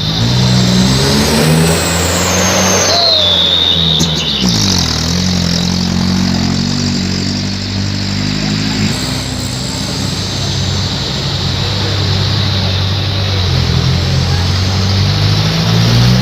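Truck engines with loud 'chung takalar' style exhausts running under throttle, a deep 'dobol dobol' exhaust note. About four seconds in the engine pitch drops and then climbs again, as on a gear change while pulling uphill.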